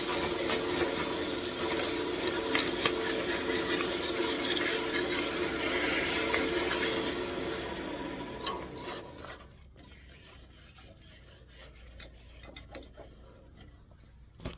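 Wood lathe running while 320-grit sandpaper is held against a spinning walnut wand: a steady rubbing noise over the motor's hum. About eight seconds in the lathe is switched off and winds down, leaving only a few small knocks.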